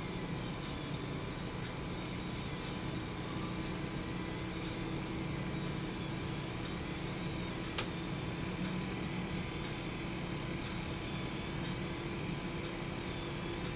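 Seasonic S12EP 650HT computer power supply running: a steady fan hum with a faint high whine that rises and falls about every two seconds, and a single click partway through.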